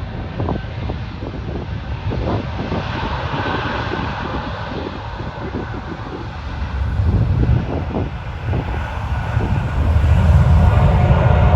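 Jet airliner engines rumbling, the rumble growing louder toward the end, with wind buffeting the phone's microphone.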